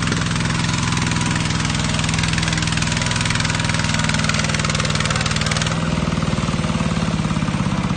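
An engine running steadily under a loud rushing hiss; the hiss eases about six seconds in while the engine keeps going.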